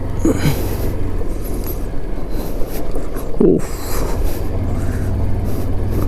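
Motorcycle engine running steadily as the bike pulls away over sand, under a continuous rush of noise.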